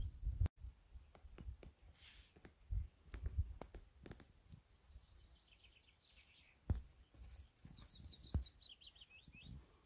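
Faint outdoor ambience with a small songbird singing two phrases of quick chirping notes, each phrase stepping downward in pitch. A few soft low thumps are heard at irregular moments.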